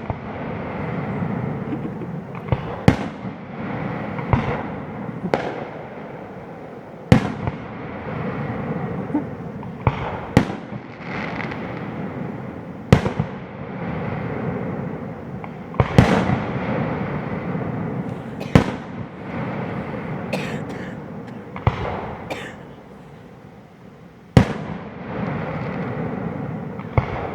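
Fireworks display: aerial shells bursting with sharp bangs every one to three seconds, each followed by crackling and a rolling echo.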